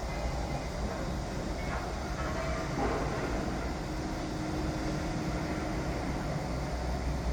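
Construction-site machinery noise: a steady low mechanical rumble, with a faint held whine in the middle.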